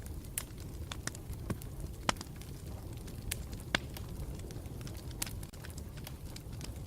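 Campfire burning with a steady low rumble and irregular sharp crackles and pops, the loudest about two seconds in and just under four seconds in.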